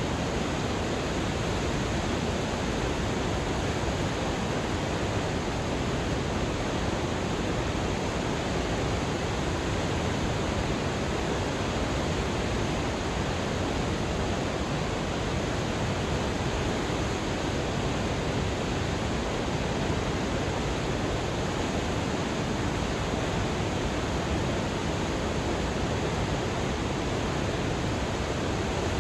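Waterfall: a steady, unbroken rush of falling water, heaviest in the low and middle range.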